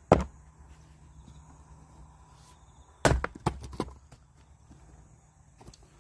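Firewood being chopped: a sharp blow right at the start, then another about three seconds in followed by three lighter knocks.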